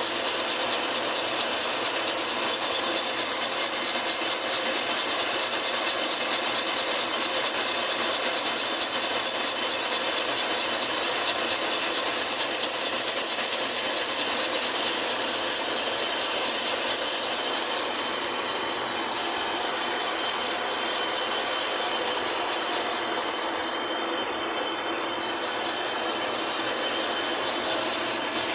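Cylinder boring machine cutting a cylinder of a Hyundai Sonata engine block: a steady, high-pitched hissing cutting noise from the boring tool. It eases slightly about three-quarters of the way through, then comes back up.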